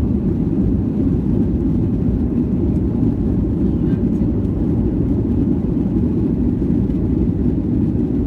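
Airliner taking off: a steady, loud low rumble of jet engines and rushing air with no change in pitch.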